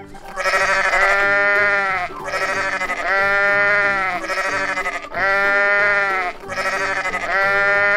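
Sheep bleating: about four long, wavering bleats in a row, one following close on another.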